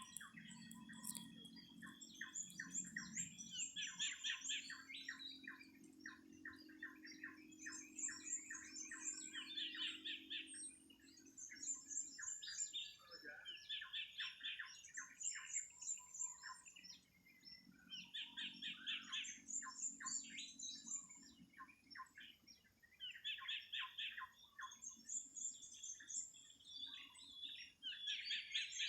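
Birds calling: repeated phrases of quick chirping notes every two to three seconds, with thinner high notes between them.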